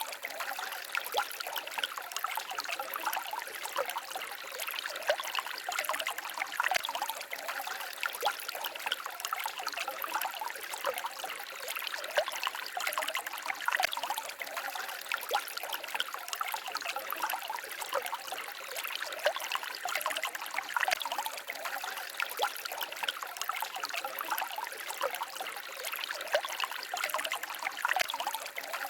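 Small stream babbling and trickling steadily, a continuous light wash of water with many tiny splashes and no deep rumble.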